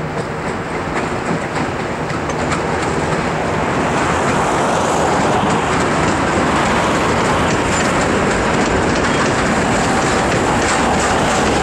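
2M62U two-section diesel locomotive's two-stroke diesel engines running as it hauls a freight train past, growing louder over the first few seconds. The wheels of the tank cars behind it then clatter over the rail joints.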